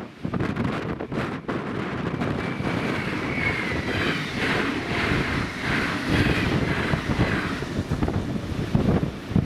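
Munich S-Bahn electric commuter train running past, a steady rumble with a faint high whine in the middle, under heavy wind buffeting on the microphone.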